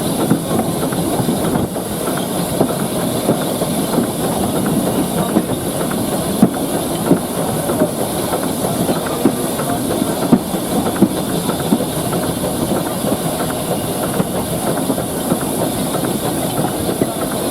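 Steam railway locomotive at work: a steady hiss of steam with irregular clanks and knocks throughout.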